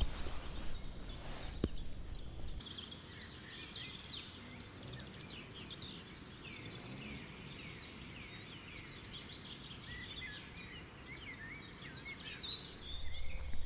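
Small songbirds singing: a dense run of short, high chirps and twittering phrases, fairly faint. A low rumble underneath cuts off about two and a half seconds in.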